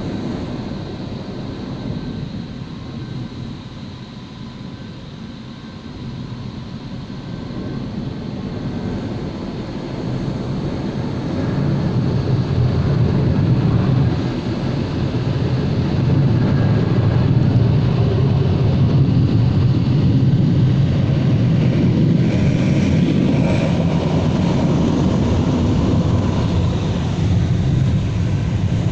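Automatic car wash machinery running with a steady rushing rumble, which dips early on and then builds over about ten seconds to a loud, even level.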